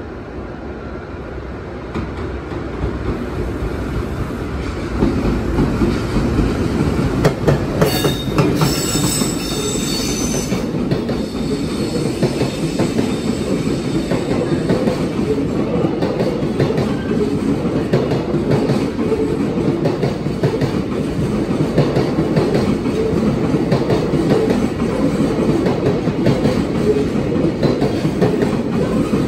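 An EF510-500 electric locomotive hauling a container freight train of Koki flat wagons approaches and passes through without stopping, its rumble growing over the first few seconds. A brief high squeal comes about eight seconds in, and then the steady rumble and clatter of the wagons' wheels carries on.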